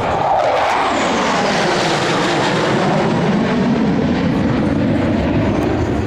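Fixed-wing airplane flying past, its engine sound falling in pitch as it goes by.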